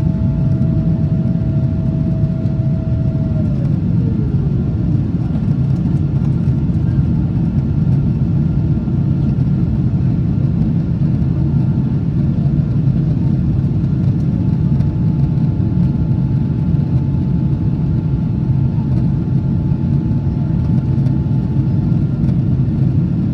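Steady low roar of a Boeing 777-200ER's engines and airflow, heard inside the cabin as the airliner climbs after takeoff. A steady whine falls in pitch a few seconds in, and a fainter whine comes in later.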